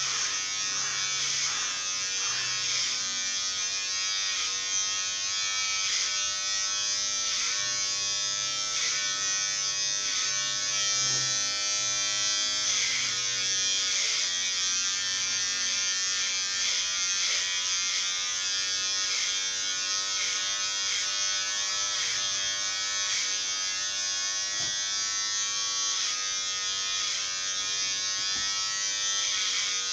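Electric hair clipper running steadily, its motor pitch dipping briefly now and then as the blades cut through hair.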